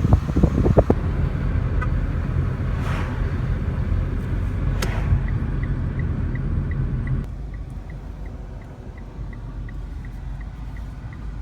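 Low, steady rumble of a car heard from inside, which becomes quieter about seven seconds in. From about five seconds in there is a fast, regular, faint ticking, about two or three ticks a second.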